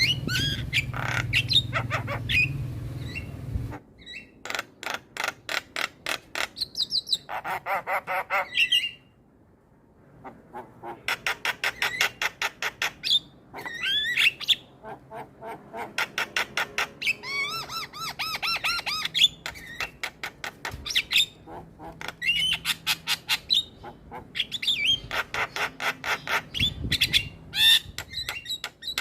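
Javan mynas (jalak kebo) calling in runs of rapid, sharp repeated notes and harsh squawks, in bursts separated by short pauses. A low hum sits under the first few seconds.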